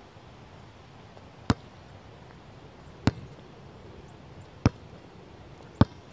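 Basketball bounced on an outdoor court four times, single sharp impacts about one and a half seconds apart.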